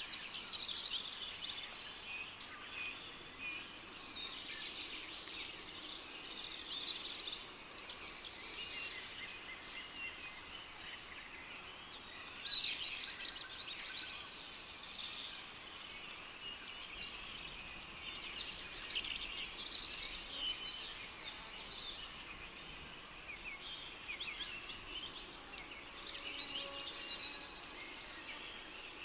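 Rainforest ambience: a cricket chirping in a high, steady, evenly pulsed rhythm, with birds calling over it. The chirping stops for a second or two about halfway through, then resumes.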